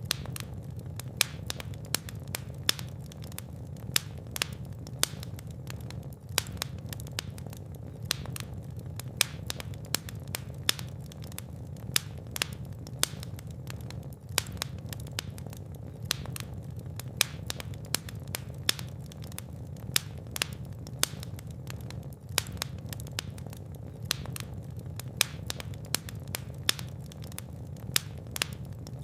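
Wood fire burning in a fireplace: a steady low rumble of flames with frequent sharp crackles and pops, a few each second at irregular intervals.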